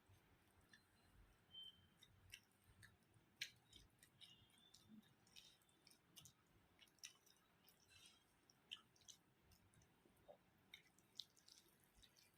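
Faint chewing of a mouthful of rice and curry, with many small, wet clicks scattered unevenly through it.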